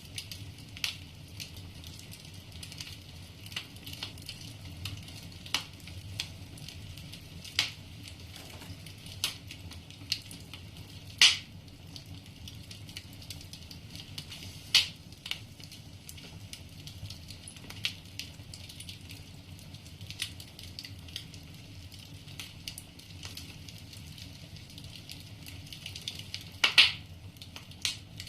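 Firewood burning in a fireplace, crackling with irregular sharp pops over a low steady rumble. The loudest pops come about eleven seconds in, near fifteen seconds, and near the end.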